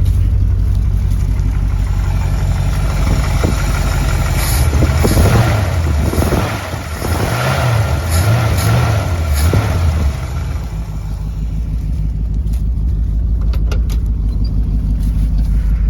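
1968 Ford Torino GT's 302 V8 running at idle, revved up and down several times in the middle before settling back to a steady idle.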